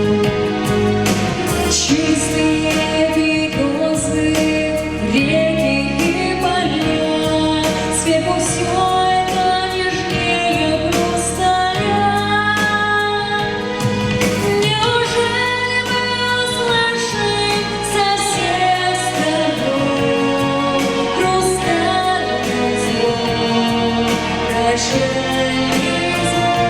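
A woman singing a Russian pop song over an instrumental backing track.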